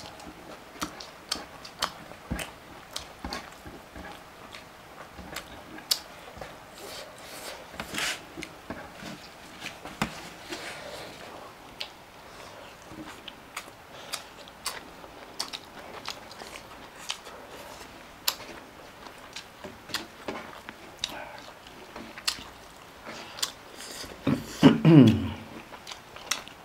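Close-miked eating sounds: chewing and biting, with many short sharp smacks and clicks scattered throughout. Near the end comes a short, loud vocal sound falling in pitch.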